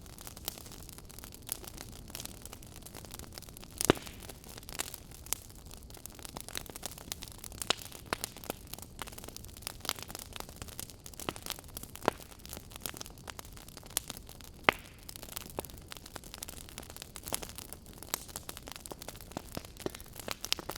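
Wood fire crackling in a fireplace: a steady soft hiss with irregular snaps and pops throughout, two sharper pops about four seconds in and near the end.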